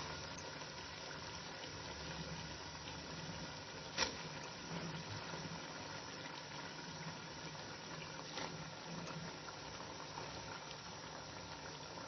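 Ghee and onions frying in a large pot, with a low, steady sizzle and bubbling as wet pieces of beef tripe are added. A few sharp clicks come through it, one about four seconds in and another a little after eight seconds.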